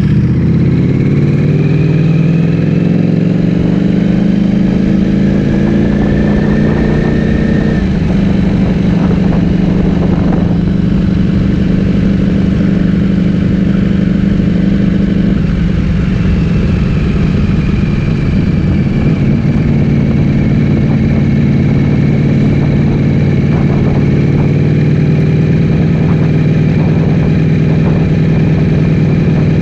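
Ducati Streetfighter V4S's 1103 cc V4 engine through an Akrapovic full-system exhaust, under way on the road. The revs climb for the first eight seconds or so, then hold steady at cruise, dipping slightly about halfway through.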